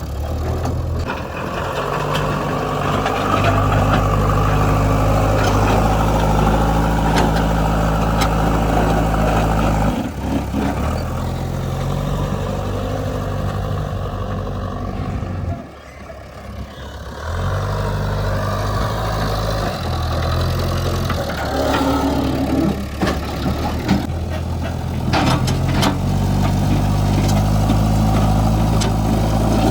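Diesel engine of a JCB 3DX backhoe loader running and working under changing load while it loads mud. The sound drops sharply for about two seconds halfway through, and there are a few sharp knocks near the end.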